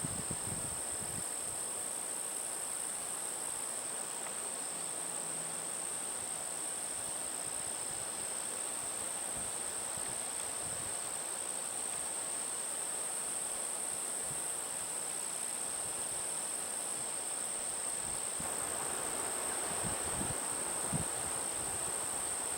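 Chorus of insects singing a steady, high-pitched drone, with light wind rumble on the microphone.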